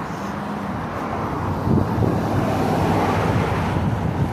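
Wind buffeting the microphone, over the noise of a passing car that grows louder toward the middle.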